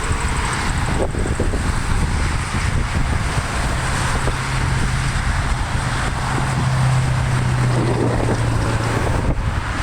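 A vehicle engine's low, steady drone, strongest in the middle of the stretch, with wind buffeting the microphone.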